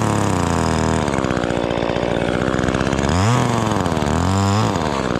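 Dewalt 60V top-handle battery chainsaw (DCCS674X2, 14-inch bar) cutting a wide face notch into a pine trunk. Its motor whine runs loud and steady, the pitch dropping and picking up again several times as the chain bites into the wood.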